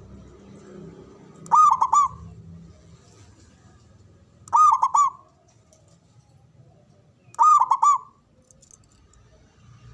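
Male Javanese zebra dove (perkutut) singing its cooing song: three short phrases of a few quick ringing coo notes each, about three seconds apart. It is the male's territorial song, the kind that sets rival males singing back.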